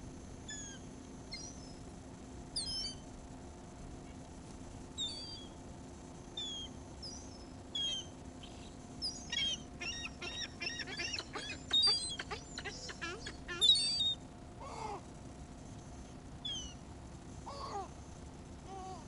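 Seagulls calling: short, high, downward-sliding squeals, scattered at first and then a dense flurry of overlapping calls in the middle, with two lower calls near the end.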